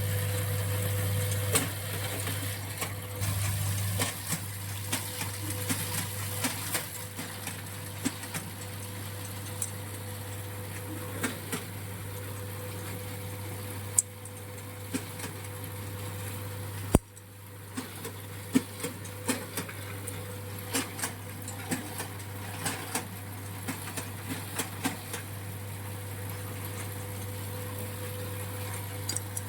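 Electric shaving machine running with a steady motor hum and scattered sharp clicks and ticks. One loud crack about 17 seconds in, after which it runs a little quieter.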